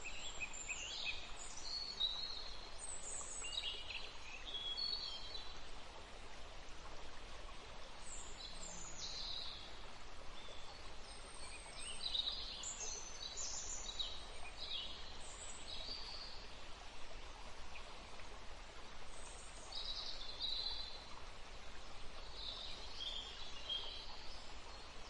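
Several songbirds singing in short phrases of chirps and quick glides, one after another and sometimes overlapping, over a steady background hiss of outdoor ambience.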